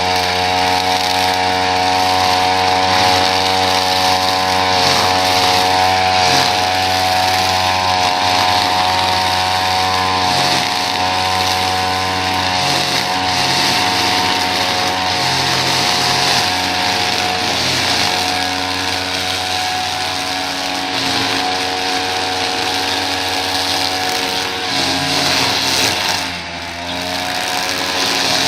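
Small petrol engine of lawn-care equipment running steadily at high speed, with a brief drop in speed near the end.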